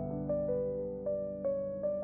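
Slow, soft piano music: single melody notes struck every few tenths of a second over held low notes.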